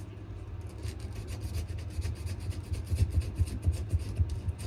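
Sandpaper rubbed back and forth by hand on a wenge and maple knife handle, in short rasping strokes. The strokes come about four a second and grow louder in the second half, each with a dull knock.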